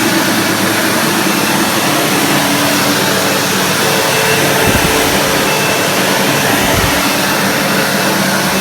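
Upright vacuum cleaner running steadily as it is pushed over a rug, with a constant motor hum and rush of air, and two dull low bumps a little past the middle.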